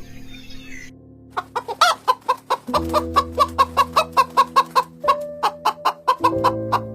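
A chicken clucking in a fast, even run, about four or five clucks a second, starting about a second in. Soft background music with held tones plays underneath.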